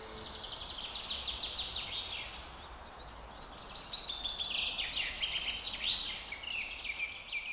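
Birds singing: quick, high chirps and falling trills in two bouts, a short one and then a longer, louder one after a brief lull.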